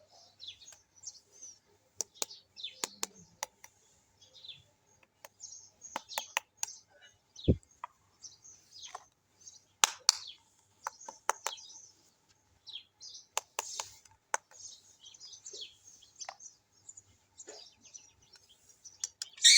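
Small plastic toy kitchen pieces and their packaging being handled: scattered sharp clicks and short, high crinkling rustles, with one duller knock about halfway through.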